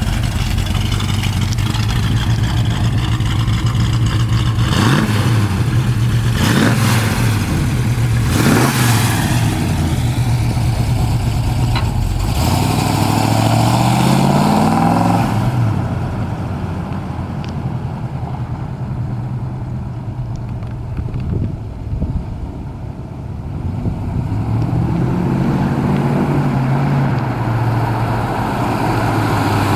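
1967 Ford Mustang's 302 V8 engine driving off, its revs rising several times in the first half. The engine sound drops away about halfway through as the car moves off, then grows again as it comes back.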